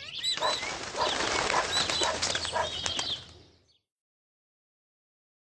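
Sound effect of a small bird chirping, with a rush of flapping wings, fading out after about three and a half seconds.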